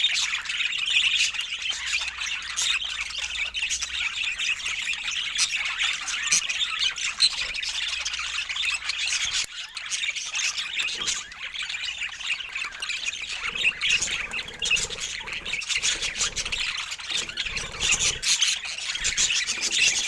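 Budgerigars chattering and warbling: a busy, continuous stream of squawks, chirps and clicky calls.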